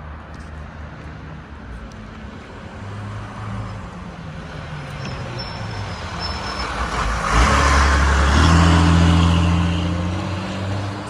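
A road vehicle's engine running and passing close by, growing louder to a peak about seven to nine seconds in, then easing off.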